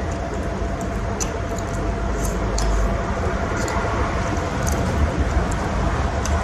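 Steady background noise in a small eatery: a low rumble with a faint steady hum, broken now and then by a few light clicks.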